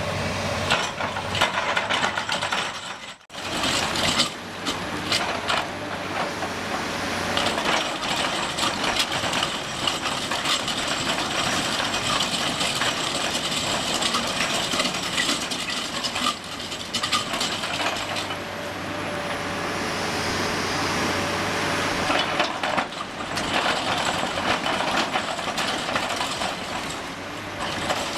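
Alpine TC-E hydraulic rotary rock grinder's cutting drum grinding into hard limestone: continuous rough grinding with dense crackling as rock breaks under the picks, over the Komatsu PC390 excavator's diesel engine running. The sound drops out briefly about three seconds in.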